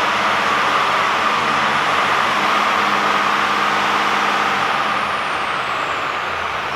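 DAF XF480 truck's PACCAR MX-13 straight-six diesel idling steadily, with a faint high whine that falls in pitch and a slight drop in level about five seconds in.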